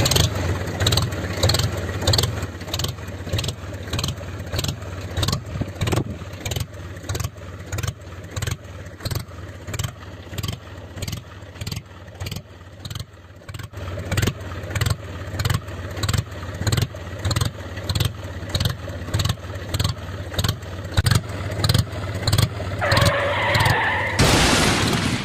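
Small engine of a DIY mini tractor running with an even chugging pulse, about two beats a second.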